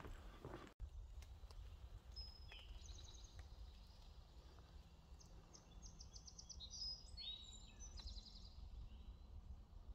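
Faint songbirds calling: short high chirps and several fast trills from about two seconds in until near the end, over a low steady rumble.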